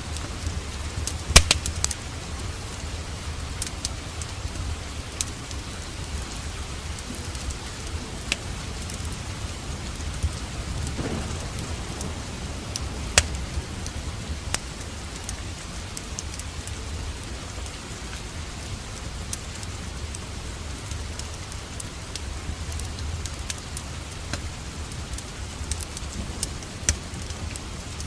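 Steady rain with a low rumble beneath it, mixed with the sharp crackles and pops of a wood fire in a fireplace. The loudest pop comes about a second in.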